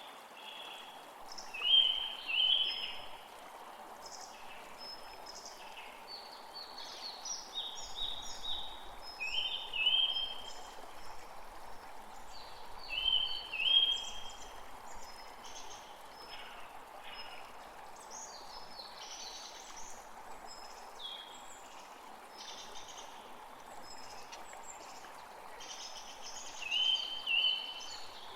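Wild birds singing and calling, with many short, high notes. A loud two-note phrase comes back several times, about two seconds in, around ten and fourteen seconds in, and near the end. Under it all runs a steady background hiss.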